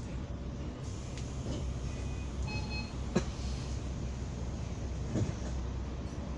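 Ride noise inside a moving bus: a steady low engine and road rumble, with a brief high tone at about two and a half seconds, a sharp knock about three seconds in and a smaller thump near five seconds.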